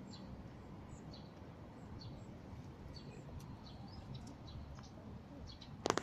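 Small birds chirping, with scattered short, high chirps over a steady low background rumble. A single sharp knock just before the end is the loudest sound.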